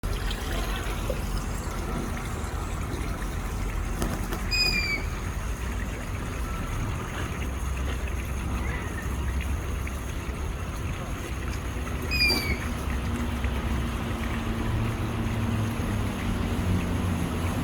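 Two short, bright bird calls, each falling slightly in pitch, about seven and a half seconds apart, over a steady low rumble of background noise.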